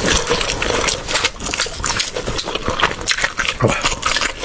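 Close-miked chewing and wet mouth smacking, a quick irregular run of small clicks, while eating food with a wood-ear mushroom and egg filling.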